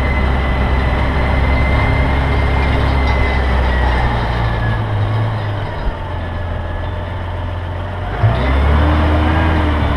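A heavy engine running steadily, its note changing about halfway through, with a short knock just after eight seconds.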